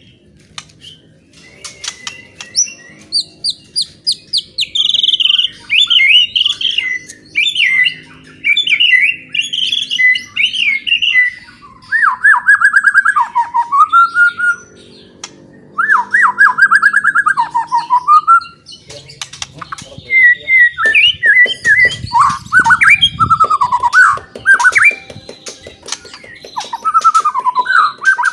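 White-rumped shama (murai batu) singing loudly: a long run of varied phrases, rapid chips and whistles broken by short pauses, with repeated trilled notes sweeping down and up. This is the loud song that shama keepers play to provoke other shamas into singing.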